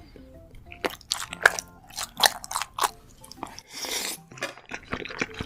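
Close-miked eating sounds of a person biting and chewing crunchy food: after a quiet first second comes a run of sharp, crackly crunches, denser around four seconds in.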